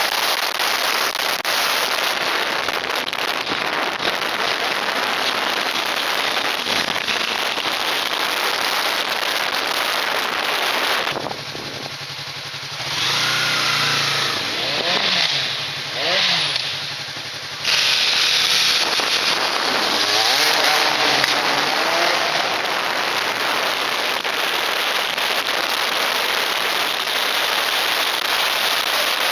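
Heavy wind noise buffeting an action camera's microphone, as at speed. About eleven seconds in, the wind drops for several seconds and an engine can be heard rising and falling in pitch, before the wind noise returns.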